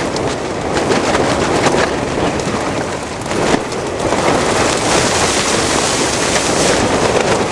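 Storm wind of about 120 km/h blowing hard at high-altitude camp: a loud, steady rush with rapid flapping and snapping of tent fabric. It gusts stronger about halfway through.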